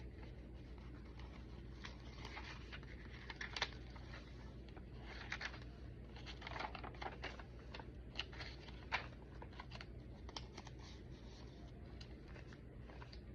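Paper pages of a thick handmade junk journal being turned and handled: soft rustles with scattered light clicks and taps, over a faint steady low hum.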